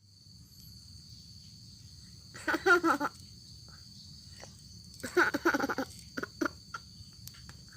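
A cat meowing twice, each call under a second long, the second followed by a couple of short chirps, over a steady chirring of crickets.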